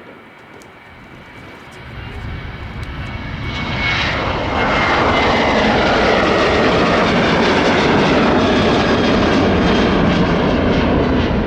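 Jet airliner engines passing close by. The sound builds over a couple of seconds to a loud, steady level, with a high whine that falls in pitch as the aircraft goes by.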